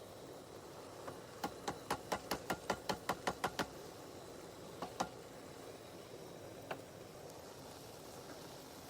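A quick run of about a dozen light clicks, roughly five a second and growing a little louder, followed by a few single clicks, over a faint steady hiss.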